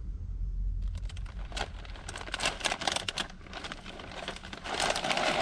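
Irregular crinkling and rustling with scattered crackly clicks, starting about a second in and thickening into a dense burst near the end, over a low rumble in the first second.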